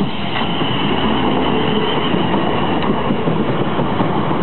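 Class 450 Desiro electric multiple unit running past over a level crossing at close range: a steady, loud rumble of wheels on the rails.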